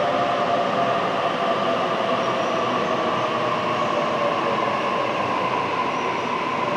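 Sydney Trains double-deck electric train running along an underground station platform. A steady rumble and rush of noise carries a motor whine that slowly falls in pitch.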